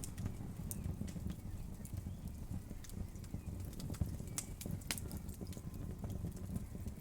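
Wood fire crackling in a fireplace: a steady low rumble of the flames with irregular sharp crackles and pops of the burning wood, a couple of louder pops about four and five seconds in.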